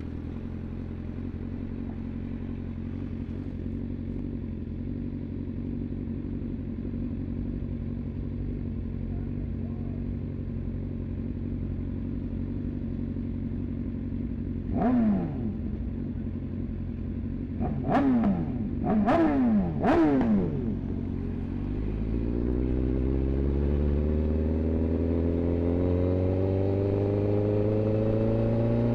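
Inline-four sportbike engine running at low revs, then four quick throttle blips in the middle, then pulling away with the revs climbing steadily through one long gear near the end.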